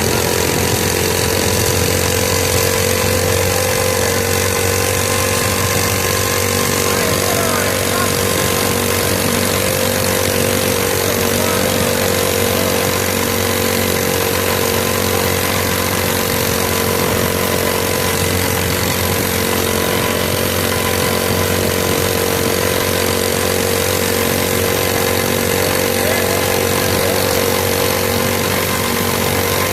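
Mini bike's small engine running at a steady speed, holding one even pitch with no revving.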